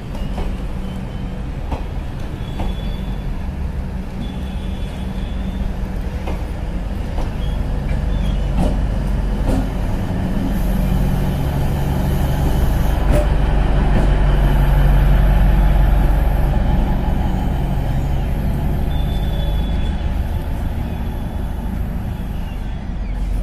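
Mhow–Ratlam DEMU (diesel-electric multiple unit) train rolling past the platform, its coaches going by with scattered clicks from the wheels. The drone of its diesel power car swells to its loudest past the middle, then eases off as the train moves away.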